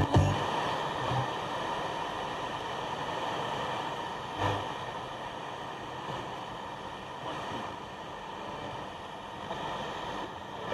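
Vintage Blaupunkt Frankfurt car radio hissing with FM static through its mono speaker, tuned between stations, with a brief louder burst about four and a half seconds in.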